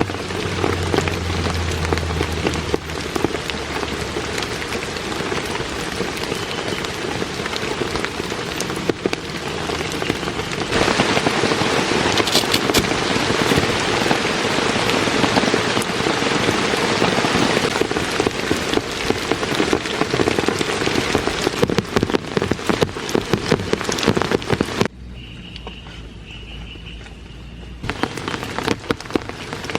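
Heavy rain falling, a dense steady hiss full of individual drop strikes. Its loudness jumps abruptly about eleven seconds in and drops sharply about twenty-five seconds in, leaving a few quieter seconds with a faint high steady tone before the heavy rain returns.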